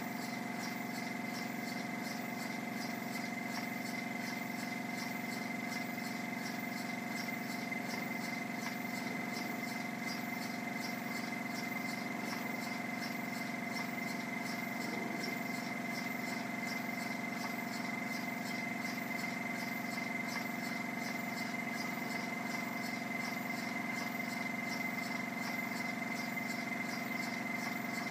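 Stuart model beam engine running steadily: an even, fast repeating beat over a constant hiss and a steady high whine.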